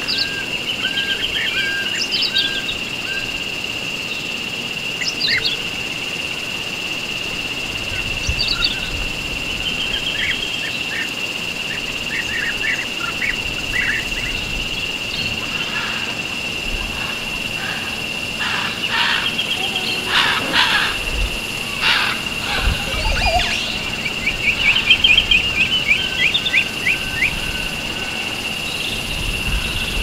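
Several wild birds calling: repeated short whistled notes, quick trills and bursts of chirping, busiest about two-thirds of the way through. A steady high-pitched drone runs underneath.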